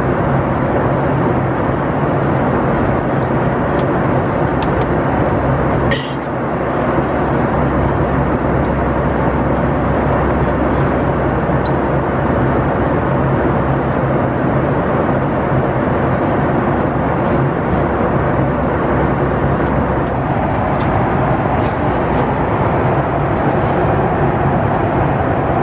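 Steady cabin noise of a Boeing 737 MAX 9 airliner: a constant rush of engine and airflow noise over a low hum. About six seconds in there is a sharp click and a brief drop in level.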